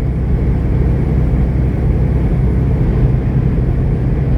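Steady drone of a semi truck's engine and road noise heard inside the cab while driving, even and unchanging throughout.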